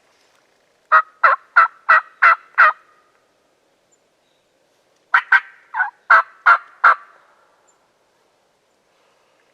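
Turkey yelping: two runs of about six evenly spaced notes, about three a second, the first starting about a second in and the second about five seconds in.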